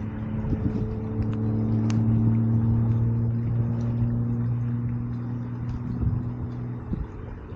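An engine running with a steady low hum that cuts off about seven seconds in, over the scattered crackle of a campfire.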